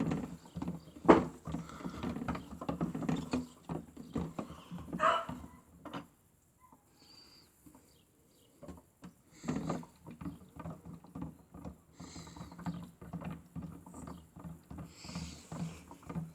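Battery-powered toy washing machine running its cycle: a small motor hums under irregular plastic clicks and rattles. It stops for about two seconds in the middle, then starts again.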